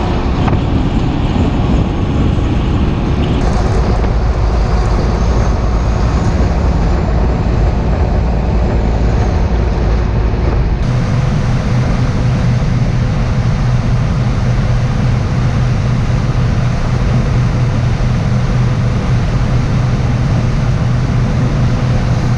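Vehicle engine running steadily. About eleven seconds in the sound changes abruptly to a steadier drone with a strong low hum.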